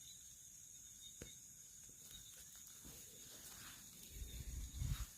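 Night insects, crickets, trilling steadily and faintly, with one small click about a second in. Low muffled thumps and rustling near the end, the loudest sound here.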